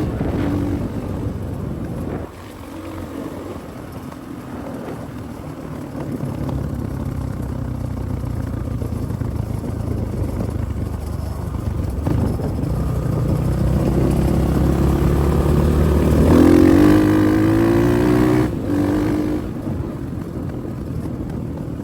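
Spark SP250P-2 motorcycle engine running under way, its pitch and load rising and falling with the throttle. It dips about two seconds in, then builds to its loudest a few seconds before the end and eases off again.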